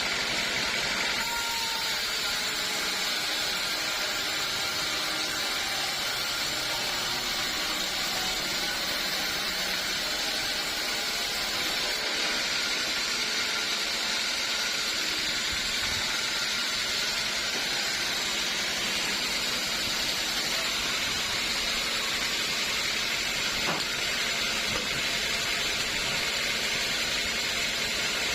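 Sawmill saw machinery running with a steady, even noise that holds at one level throughout.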